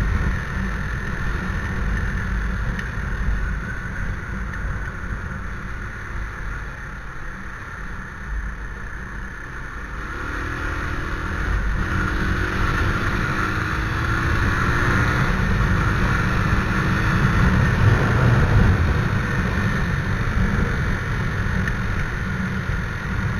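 Motorcycle riding, heard from the rider's helmet camera: a low engine rumble under wind noise. About halfway through the engine pitch rises in a few short steps as it accelerates through the gears, and the sound grows louder.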